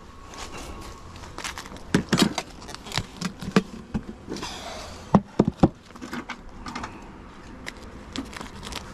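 Honeybees buzzing around an open hive, with a series of sharp knocks and clicks from wooden hive equipment being handled. The loudest knocks come in the middle, and there is a brief scraping hiss just before them.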